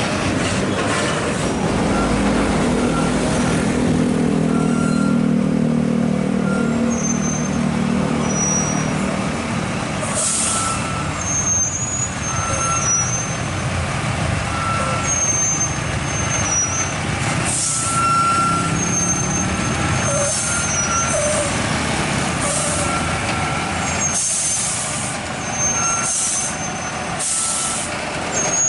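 Heavy truck's diesel engine running, its note falling over the first few seconds, followed by repeated short hisses of the air brakes, with intermittent short high-pitched squeaks.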